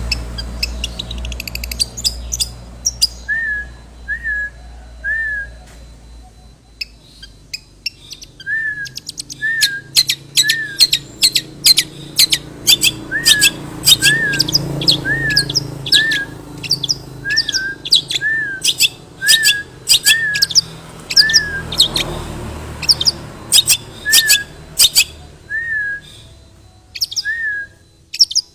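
Long-tailed shrike (cendet) singing a mimicry-filled song: a short hooked whistle repeated about once a second, over quick, sharp high chirps. A low background rumble fades out over the first few seconds.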